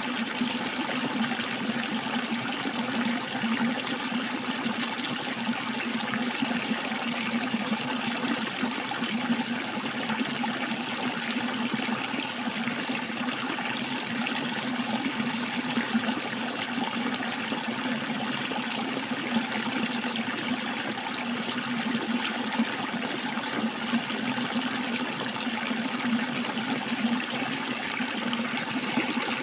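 Water running steadily, a continuous even rush with no breaks or changes.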